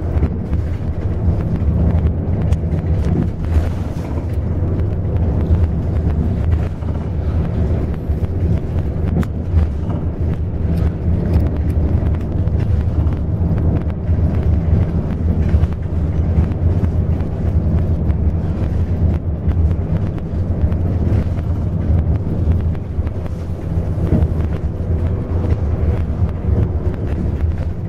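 Intercity bus in motion, heard from inside the passenger cabin: a steady low drone of engine and road noise.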